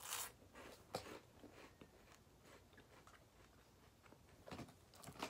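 A crunchy bite into a jalapeño popper cheese puff right at the start, then faint chewing.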